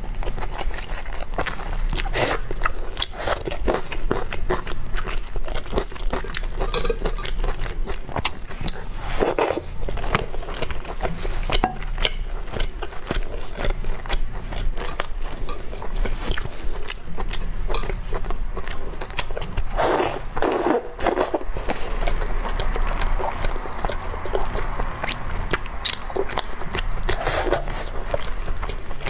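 Close-up eating sounds: a person biting and chewing braised pork trotter, wet and sticky, with many small clicks and crackles of the mouth.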